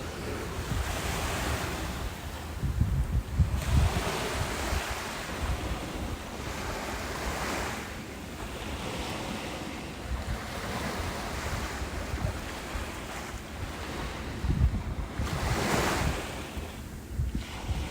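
Ocean surf breaking and washing up a beach, the hiss swelling and falling back every few seconds. Wind buffets the microphone with low rumbles, loudest about three seconds in and again near the end.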